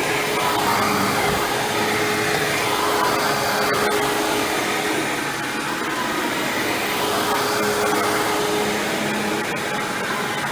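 Hoover WindTunnel self-propelled bagless upright vacuum cleaner running steadily while vacuuming, with a steady hum over its rushing airflow. The loudness swells and eases slightly.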